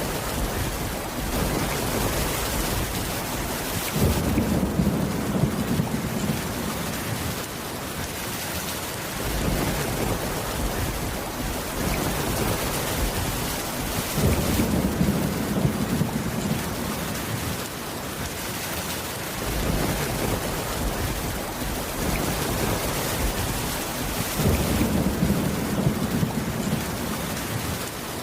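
Steady rain, with low thunder rumbles that come three times, about ten seconds apart, each lasting a few seconds.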